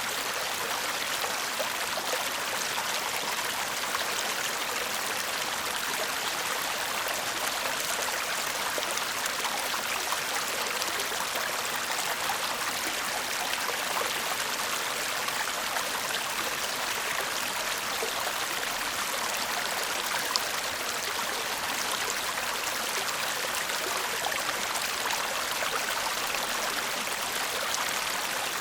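Shallow stream burbling steadily over stones, a continuous rippling splash with fine trickling detail.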